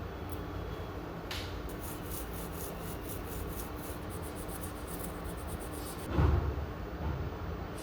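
Rapid rhythmic rubbing or scraping, about five strokes a second for some four seconds, then a single loud thump, over a steady low hum.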